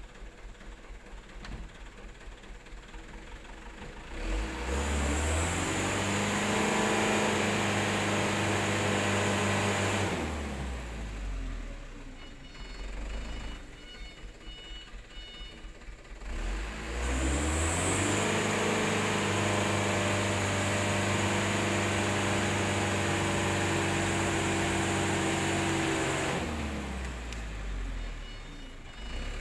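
Super HDX dump truck's diesel engine revved hard twice under heavy load, each time held high for several seconds (the second longer) and then dropped back to a lumpy idle, as the loaded truck strains to pull out of deep mud.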